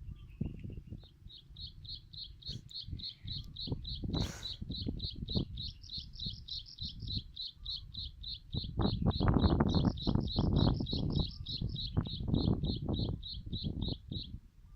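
A bird chirping one short high note over and over, about four a second. Under it run irregular low rustling and thumping noises, loudest a little past the middle, with one sharp click about four seconds in.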